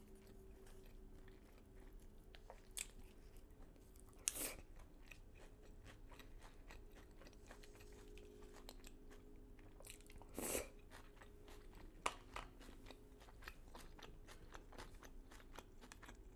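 Faint chewing of crunchy battered fried chicken, with soft mouth clicks and a few louder crunches spread through.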